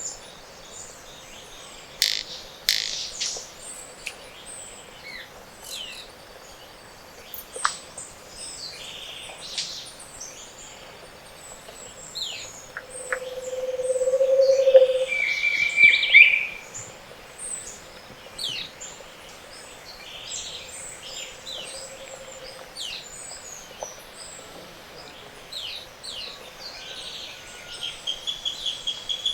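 Mixed chorus of tropical montane forest birds: many short high chirps, whistles and trills overlapping. About halfway through, a low hollow trill swells in loudness for a couple of seconds, the song of a Scaled Antpitta, followed at once by a clear high whistle.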